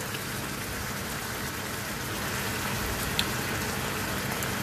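Sliced chicken with onion and garlic sizzling steadily in a nonstick wok, just wetted with liquid seasoning. A light click about three seconds in.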